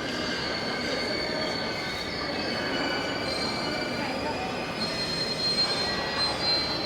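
Tobu 100 series Spacia electric train moving through the station, its wheels squealing on the rails with several thin high tones over the rumble of the running gear, getting a little louder in the second half.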